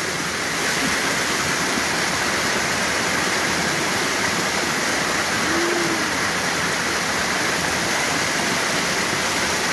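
Floodwater rushing steadily down a swollen creek in a flash flood, with heavy rain falling.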